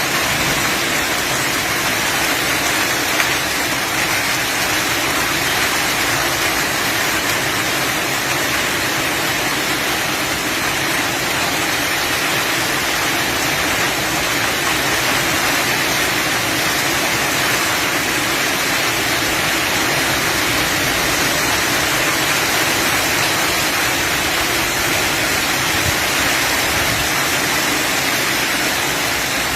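Heavy storm downpour: a dense, steady rush of rain with no letup.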